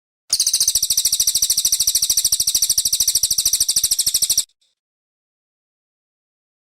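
Brown cililin songbird giving a very fast, high-pitched trill of evenly repeated notes, about four seconds long, that stops abruptly about two-thirds of the way through.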